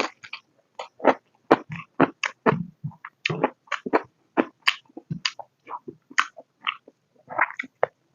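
Close-up eating sounds: wet chewing, lip smacks and clicks in quick irregular succession, several a second, as pork and potato curry with rice is chewed.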